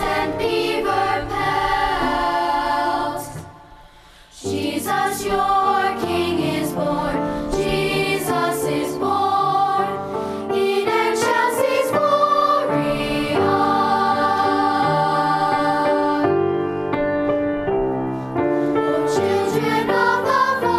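A choir singing, with a brief break between phrases about four seconds in.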